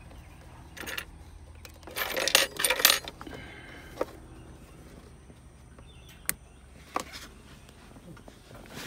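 Small metal objects jingling and rattling for about a second, starting about two seconds in, followed by a few single sharp clicks.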